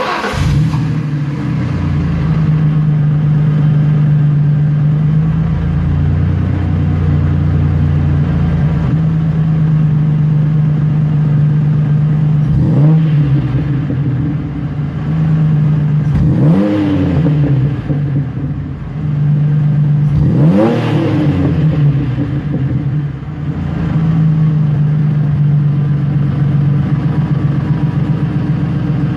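Exhaust of a 1998 Ford Ranger's 3.0L V6 through a 2.5-inch mandrel-bent catback and Borla ProXS muffler, idling steadily. It is revved three times about 13, 16 and 20 seconds in, each rev rising and falling quickly back to idle.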